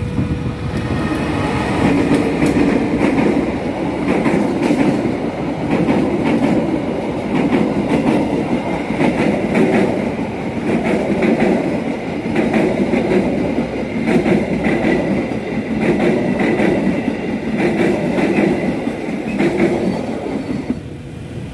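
Kaligung passenger train's coaches passing close by, the wheels clattering over the rail joints in a steady rhythm of about one beat a second, with a steady high whine over it. The clatter falls away near the end as the last coach goes by.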